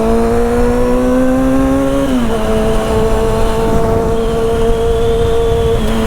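Motorcycle engine pulling under way, its pitch slowly climbing and then dropping once about two seconds in as it shifts up a gear, then holding steady. There is low rushing wind noise on the microphone throughout.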